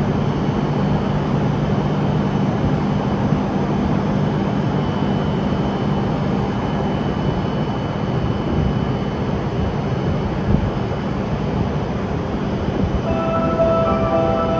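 Steady running noise of an E5-series Shinkansen train at the station, with a low electrical hum in the first half. Near the end a platform melody begins.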